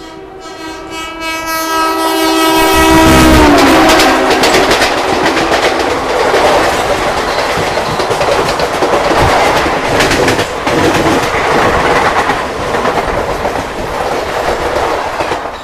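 A train passing on the next track sounds its horn, the pitch dropping as it goes by. Then the loud rattle and clatter of its wheels over the rail joints runs on for about ten seconds, easing off near the end.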